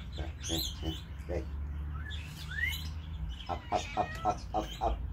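Garden birds chirping, with one short rising note midway and a quick run of short repeated calls, about four a second, in the last second and a half.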